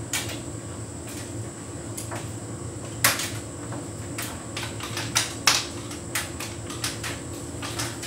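Hotpoint heat pump tumble dryer running a synthetics cycle: a steady hum from the drum motor and compressor, with sharp clicks and knocks at irregular intervals as the load tumbles against the drum, the loudest about three seconds in and again about halfway through.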